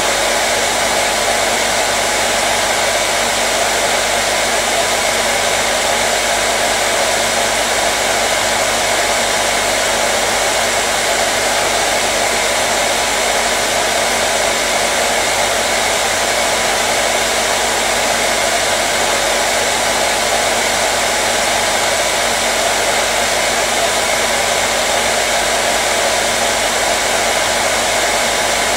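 Hair dryer running steadily: an even rush of blown air with a faint steady motor hum, unchanging throughout.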